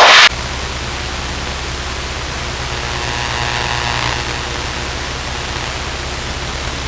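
Steady hiss of the cockpit audio feed, with the low, even drone of the Luscombe's engine in cruise flight underneath.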